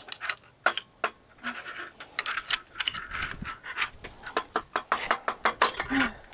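Bolts and heavy steel engine parts clinking and knocking as they are rocked and worked loose by hand, in a quick irregular run of sharp metallic clicks.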